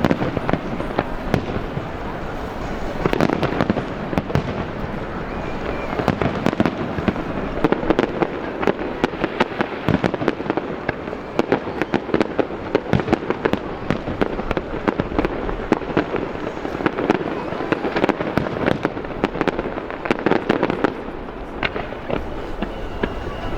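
Fireworks display: a continuous barrage of bangs and dense crackling.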